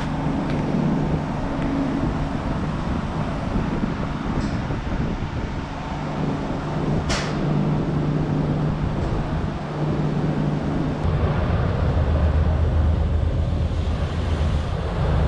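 Scania S650's 16.4-litre V8 diesel running steadily, its note dropping lower about eleven seconds in. A brief sharp sound cuts through about halfway.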